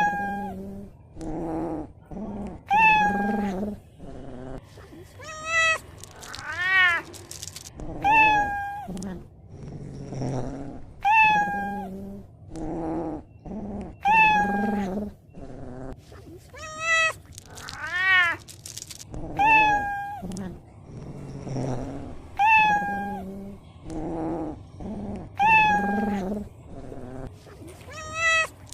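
A cat meowing over and over, a call every second or two; some meows are short and fall in pitch, others are longer and rise then fall.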